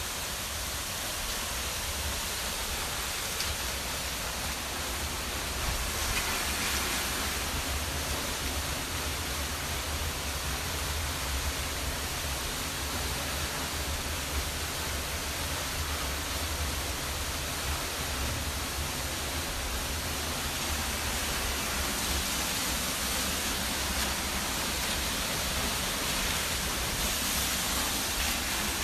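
Steady rushing of running water, an even, unbroken noise with a low rumble underneath.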